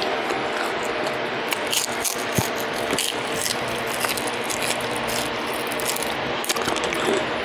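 Close-up eating sounds of fried trout: chewing with many small, sharp mouth clicks and lip smacks over a steady background hiss.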